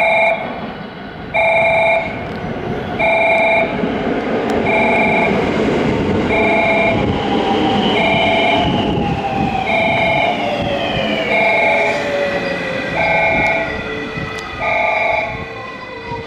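An electric train running into the station, its motor whine falling steadily in pitch as it brakes, over the rumble of the cars. A repeating electronic warning tone sounds about once every second and a half throughout.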